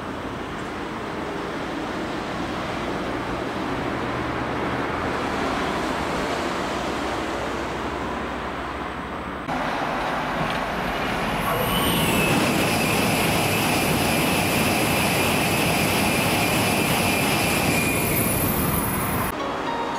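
Train noise at a railway platform: a rushing sound swells over the first half. After an abrupt change about halfway, a steady high-pitched squeal with several tones sets in and cuts off suddenly near the end.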